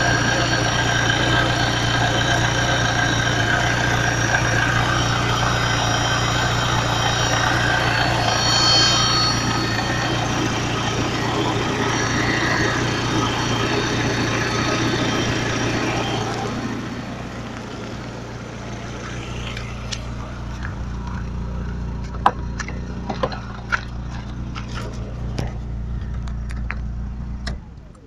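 Peugeot 106 S16's 1.6-litre 16-valve four-cylinder engine running, heard from inside the cabin, with a noise the owner finds suspect. About halfway through, the higher-pitched part of the noise drops away, leaving a low hum with scattered clicks, and the engine cuts off just before the end.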